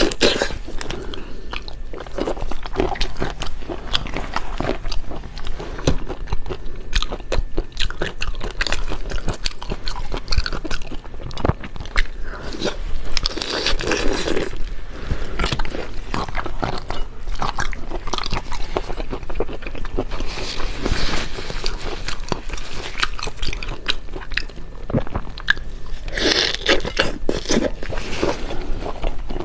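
Close-miked chewing and biting of spicy seafood, a dense run of crisp crunches that goes on without a break.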